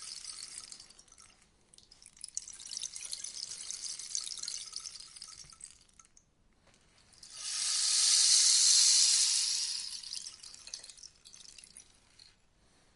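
Rainstick tipped over and over, its pebbles trickling down inside with a rain-like patter. One cascade dies away at the start, another runs for a few seconds, and then a louder, fuller cascade swells up and fades out near the end.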